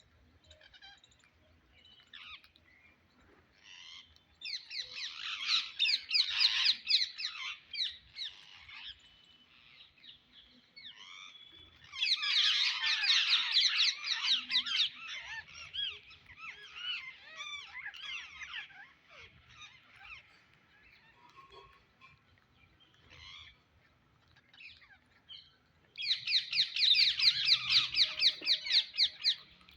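Psittacula parakeet calling in three loud bouts of rapid, repeated high calls, each lasting a few seconds, with softer single calls between them.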